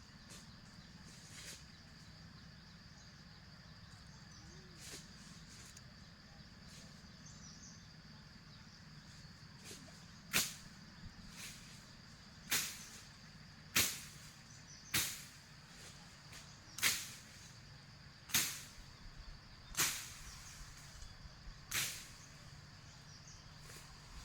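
About eight sharp knocks or strikes, one every second or two, starting about ten seconds in, each dying away quickly, over a faint steady high-pitched tone.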